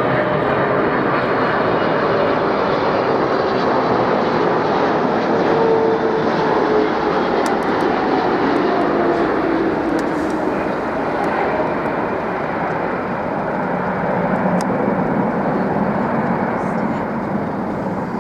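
Jet airliner's engines passing by, a loud steady noise with tones that slide down in pitch around the middle, easing off a little in the last few seconds.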